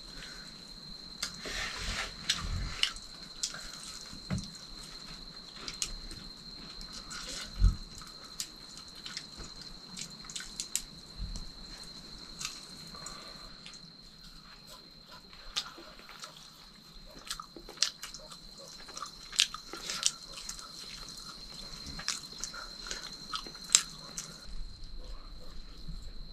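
People eating fried potato chops: scattered short clicks of biting and chewing, with a steady high whine throughout.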